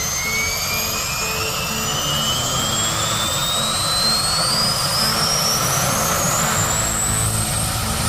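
Bell UH-1 helicopter's turbine engine running, its high whine climbing steadily in pitch, over a low pulsing rumble.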